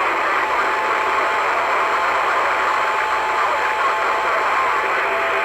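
CB radio receiver static: a steady, narrow-band hiss with faint whistling tones and faint garbled voices underneath.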